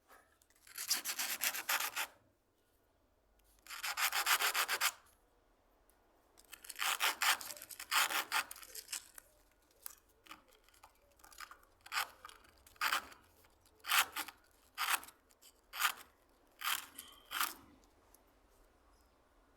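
Hand plane worked over a surface in separate scraping strokes: three longer strokes of about a second each, then a run of shorter strokes about one a second.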